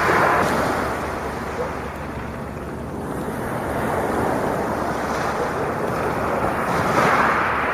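Sea waves breaking and washing on the shore, swelling about two times, with some wind on the microphone.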